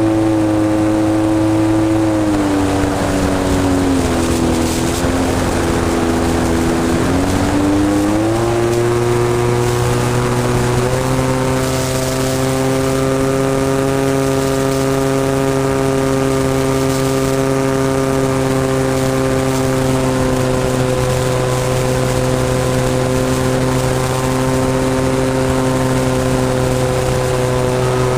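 SV Hobbies 26cc two-stroke gas engine of a model airplane running with its propeller: throttled back about two seconds in, then opened up again between about eight and eleven seconds and held at a steady speed.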